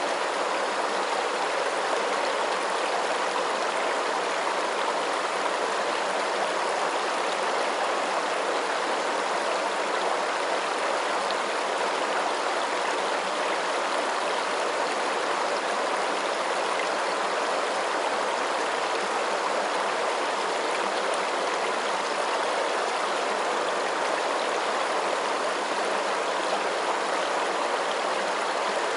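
Water flowing steadily: an even, unbroken rushing noise with no pauses or changes.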